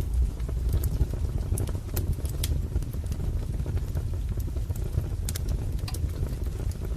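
Wood fire crackling: a steady low rumble of burning logs with scattered, irregular sharp pops and snaps.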